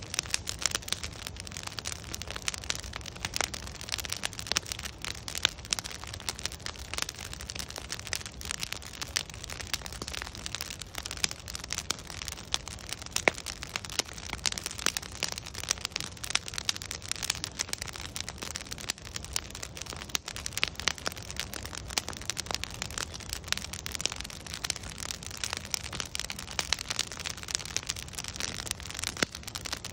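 Wood fire crackling continuously: many sharp pops and snaps of burning logs, thick and irregular, over a soft low rumble of the flames.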